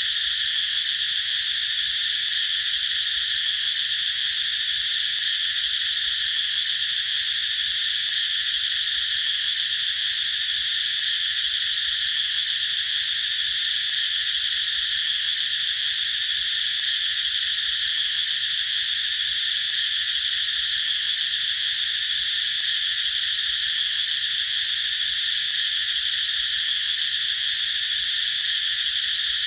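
Cicadas singing in a steady, continuous high-pitched shrill drone that holds without change.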